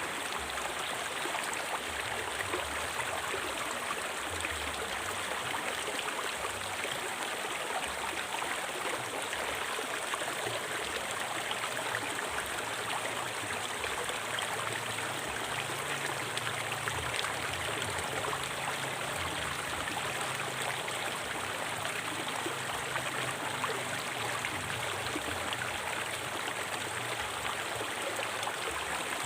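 A river flowing over rocks: a steady rush of running water with no change.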